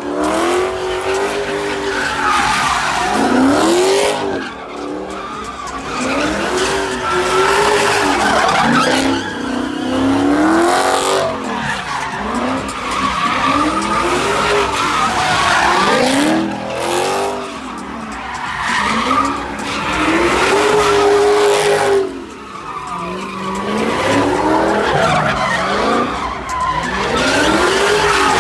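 A car doing donuts, its engine revving up and falling back over and over, every couple of seconds, while the tires skid continuously on the pavement.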